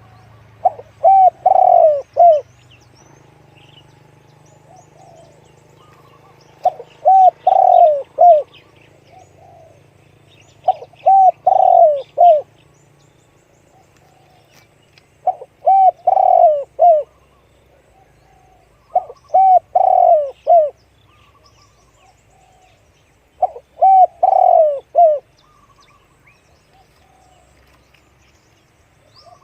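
Spotted dove cooing: six phrases of several quick notes each, repeated about every four seconds.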